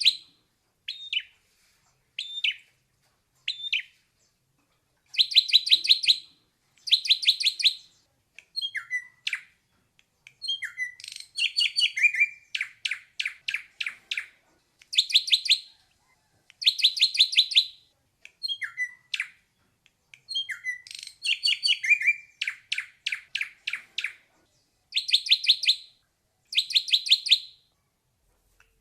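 Ashy drongo singing: repeated bursts, each about a second long, of rapid sharp, high notes with short pauses between, mixed with short downslurred whistles.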